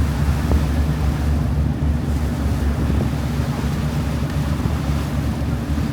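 Wind buffeting the microphone on a river cruise boat, a steady low rumble mixed with the boat's running and water noise.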